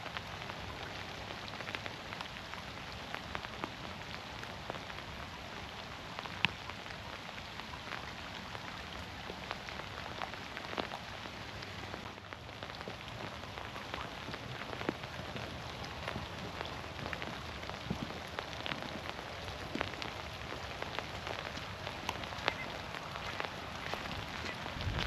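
Steady rain falling in a forest, dripping through the trees, with many separate drops heard as sharp ticks over an even hiss.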